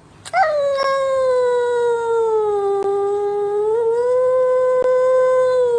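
A dog giving one long howl. The howl starts a little high, dips lower in the middle, rises again and cuts off suddenly near the end.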